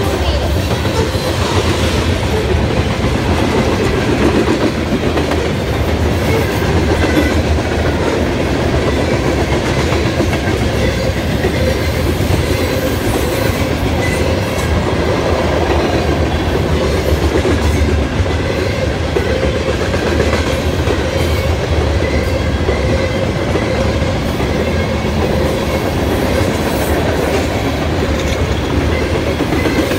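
A long freight train of grain hopper cars rolling steadily past, its steel wheels clacking over rail joints.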